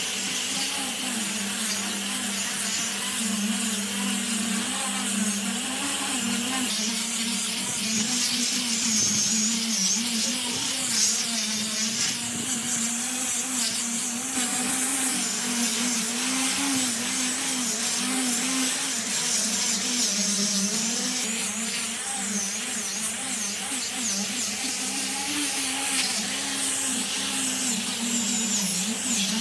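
A woodworking power tool running steadily, with a wavering motor hum under a dense hiss of cutting or sanding wood.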